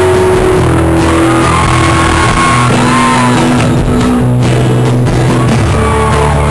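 A full rock band playing a song live and very loud, with guitars and drums.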